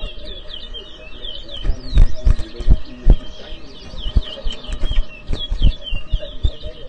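Towa-towa (chestnut-bellied seed finch) singing fast runs of short, high chirped notes. Several low thumps, the loudest sounds, fall about two to three seconds in and once more later.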